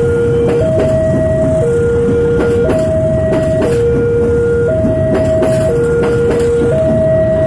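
Passenger train coaches passing close by, the wheels rumbling and clicking over the rail joints. Over it a level-crossing warning alarm sounds two alternating tones, switching pitch about once a second.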